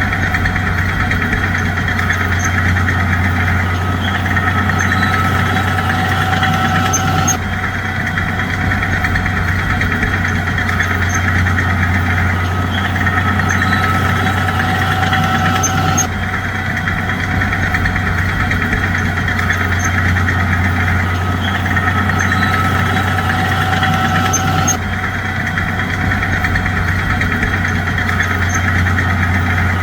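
Bulldozer's heavy diesel engine running steadily under load, a continuous low drone. The sound shifts abruptly about every nine seconds and the same pattern repeats.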